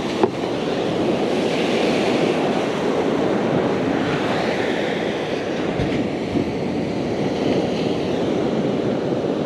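Steady rushing noise of surf washing on the beach, swelling slightly now and then.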